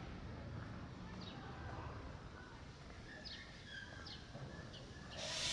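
Outdoor ambience with a steady low rumble and a few short, high bird chirps scattered through it. A loud hiss starts near the end.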